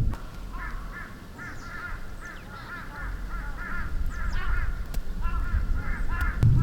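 A flock of birds calling: many short, repeated calls overlapping one another.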